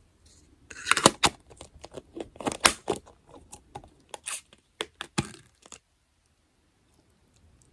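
Plastic takeout containers and sauce cups being handled as sauces are added to a noodle bowl: a run of sharp clicks, taps and crinkles that stops about six seconds in.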